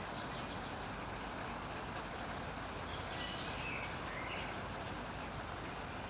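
A few faint songbird calls over a steady outdoor background rumble and hiss: one thin high note about half a second in, and a short run of notes between about three and four and a half seconds in.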